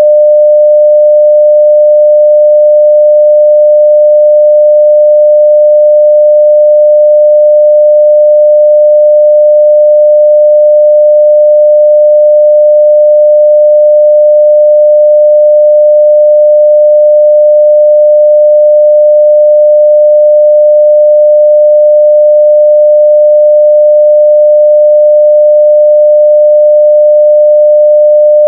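Continuous 600 Hz sine-wave test tone at full level (0 dB), one pure steady pitch that does not change.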